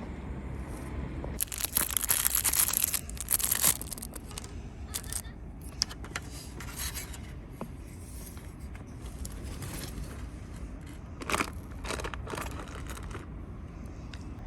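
Rustling and scraping handling noises over a steady low outdoor rumble, loudest in a burst a couple of seconds in and again in a short burst near the end, with a few scattered clicks.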